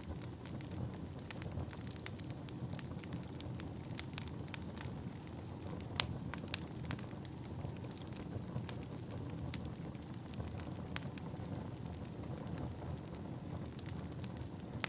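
Wood fire burning in a fireplace: a steady low rumble of the flames with frequent sharp crackles and pops of the burning logs, one louder pop about six seconds in.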